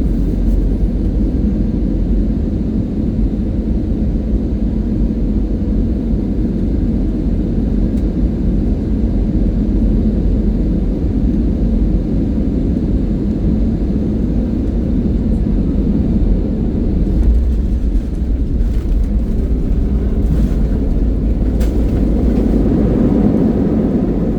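Steady low rumble of an airliner's engines and airflow heard inside the passenger cabin, with a faint steady hum, as the plane comes in on approach.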